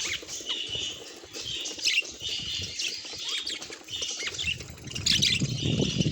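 Budgerigar chirping and chattering in short repeated calls, with a low rustling or fluttering starting about four seconds in.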